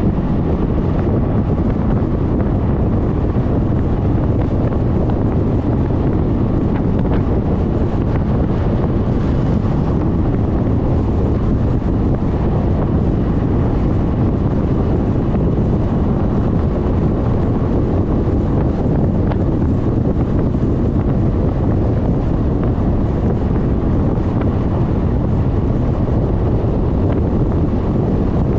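Steady low rumble of wind buffeting the microphone of a GoPro mounted on a Suzuki Burgman 400 scooter riding at speed, with the scooter's running and road noise under it.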